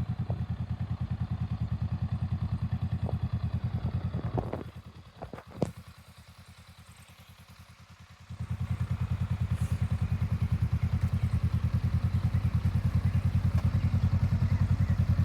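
Honda Rebel motorcycle engine running with a steady low pulsing. The engine sound drops away about four and a half seconds in, with a few clicks and one sharp tap, then comes back about eight seconds in and runs on steadily.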